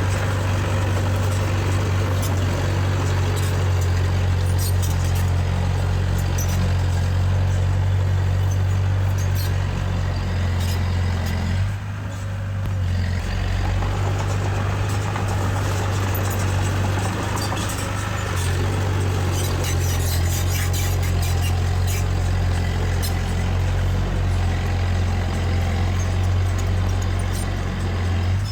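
Diesel engine of heavy earthmoving machinery running steadily under load, a strong low hum, with scattered light metallic clicks over it. The engine note dips briefly about twelve seconds in.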